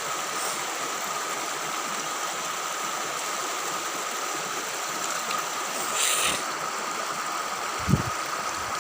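Steady rushing of flowing stream water, with a short louder hiss about six seconds in and a low thump near the end.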